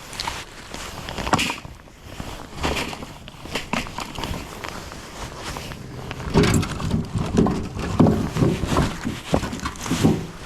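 Split firewood being handled and stacked into a rack, pieces knocking against each other in irregular clatters, with heavier thuds in the second half.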